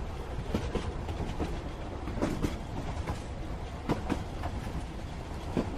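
Train rolling along the track: a steady low rumble with irregular clicks and knocks from the wheels and carriage.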